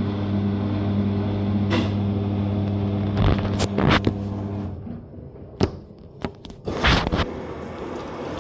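Top-load washing machine giving a steady low electrical hum that cuts off about four and a half seconds in, with several clicks and knocks around it, more of them after the hum stops.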